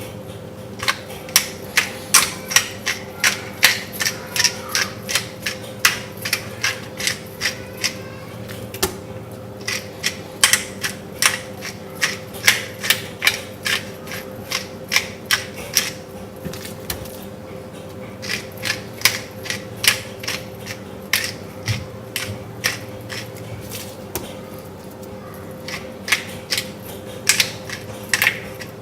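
Black pepper grinder being twisted over a block of beef, giving crisp grinding clicks about two to three a second in runs with short pauses. A faint steady hum lies underneath.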